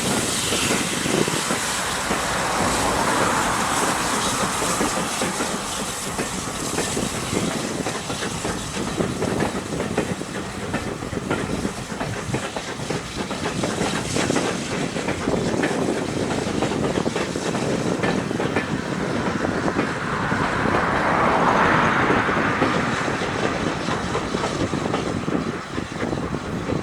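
A train running past on jointed track, its wheels clattering steadily over the rail joints, swelling louder twice.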